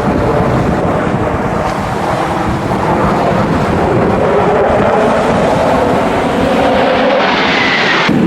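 Jet aircraft engine noise from a flying display: a loud, steady rumble. Near the end it brightens, with a falling whine, then cuts off abruptly.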